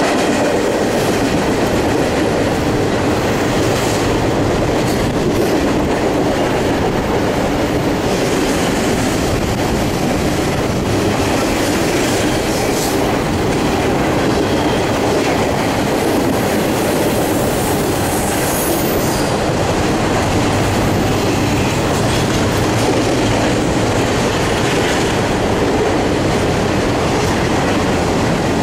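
Double-stack intermodal container cars rolling past: steady wheel-on-rail noise with a rhythmic clickety-clack over the rail joints. A brief high wheel squeal comes about two-thirds of the way through as the wheels take the curve.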